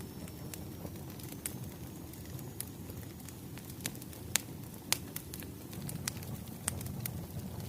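Wood fire crackling: a steady low rumble of burning logs with irregular sharp pops and snaps, the loudest a little past the middle.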